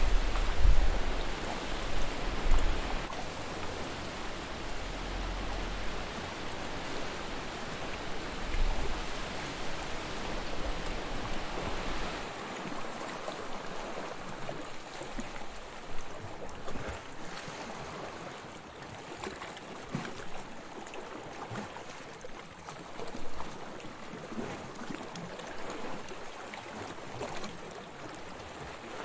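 Sea waves washing and surging on a shore, a steady rush of water with a deep rumble underneath. About twelve seconds in, the sound changes abruptly: the rumble drops away, leaving a lighter, crackling wash of water with small splashes.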